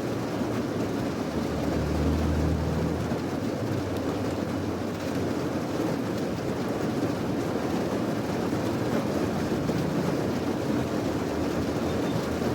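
Steady rain as a continuous hiss, with a low rumble that swells briefly about two seconds in and again near the end.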